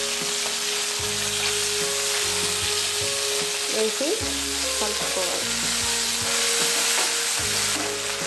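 Mint leaves and green chillies sizzling steadily in hot oil in a nonstick frying pan, stirred around with a plastic spoon.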